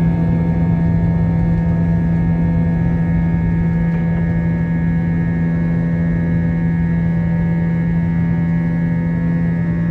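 Airbus A321's IAE V2500 turbofan engines heard from inside the passenger cabin: a steady drone with a strong low hum and several fainter steady higher tones.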